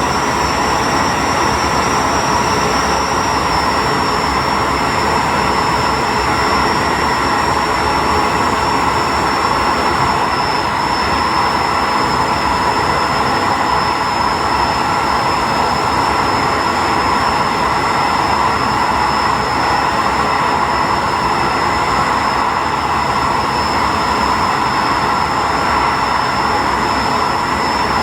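Diesel railcar running at a steady speed: a constant mix of engine drone and wheel-on-rail rumble, with a thin, steady high whine over it.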